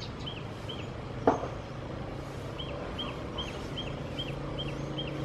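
Outdoor ambience: a bird repeating a short chirping call about twice a second, pausing for a second or so before starting again, over a steady low hum. A single sharp click about a second in.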